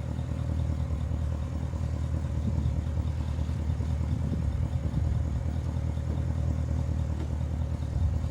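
Porsche Cayenne Turbo's 4.8-litre twin-turbo V8 idling steadily with a low, even rumble.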